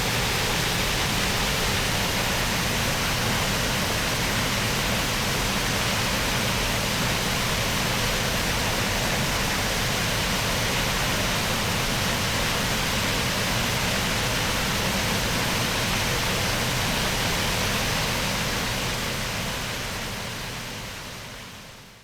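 Steady rush of a small waterfall, falling water hissing evenly, fading out over the last few seconds.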